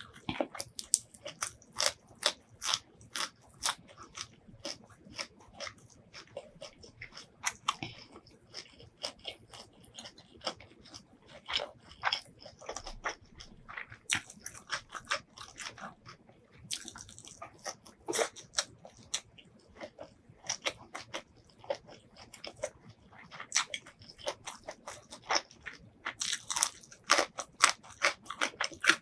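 Close-miked chewing and crunching of Thai food, raw herbs and greens picked from the plate, as crisp bites and crunches come several a second in an irregular run, thickening near the end.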